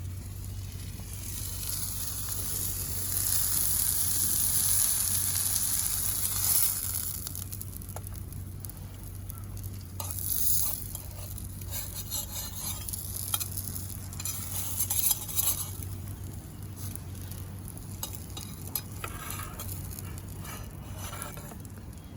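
Food sizzling in a hot pan. The sizzle swells over the first several seconds and then eases, and after that come a few clicks and scrapes of a utensil against the pan.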